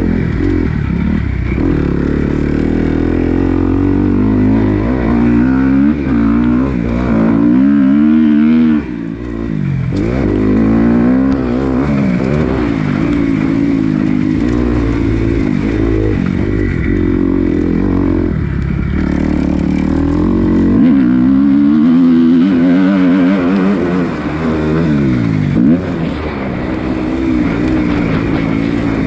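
Dirt bike engine being ridden on a motocross track, revving up and down again and again, with its pitch rising and falling every second or two and a brief dip about nine seconds in.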